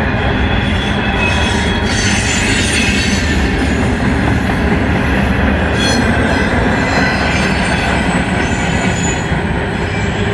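Freight cars of a long manifest train rolling past: a steady, loud rumble of steel wheels on rail, with high wheel squeal rising and fading above it several times.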